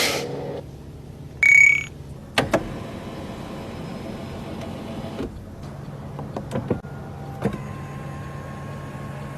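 A small electric motor hums steadily, with several sharp clicks and a brief loud rising tone about one and a half seconds in.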